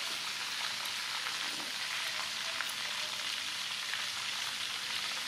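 Steady sizzle of quail frying in hot oil: an even hiss with a few faint crackles.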